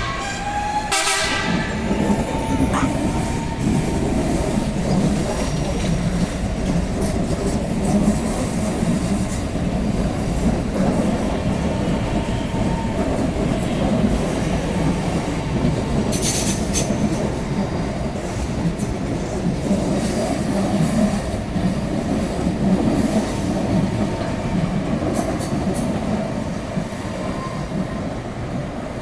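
Electric commuter train, a São Paulo CPTM or ViaMobilidade unit, sounding its horn, which cuts off about a second in, then running past with a steady rumble of wheels on rails and occasional clicks.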